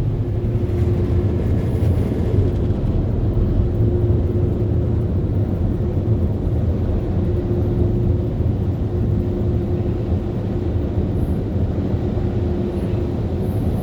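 Touchless car wash dryer blowers running steadily with a low, even rush of air and a constant hum; the dryer keeps blowing on the stationary vehicle without shutting off.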